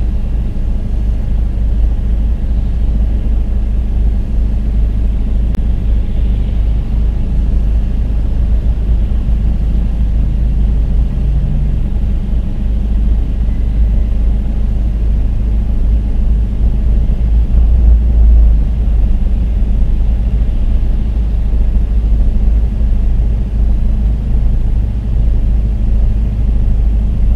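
A small car's engine idling while the car stands still, heard inside the cabin as a steady low rumble.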